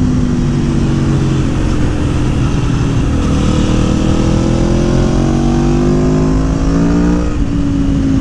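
Aprilia Tuono V4 motorcycle engine, Stage 3 tuned and breathing through an RSV4 airbox, pulling under throttle with a deep, bassy note. Its pitch climbs slowly, then drops suddenly about seven seconds in.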